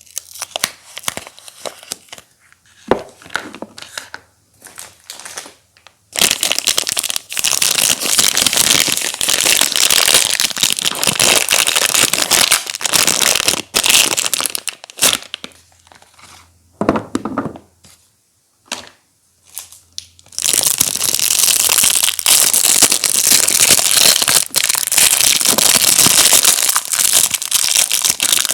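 Soap packaging being torn open and crinkled by hand: scattered crackles at first, then long stretches of dense crinkling about a fifth of the way in and again in the last third, with a quieter patchy spell between.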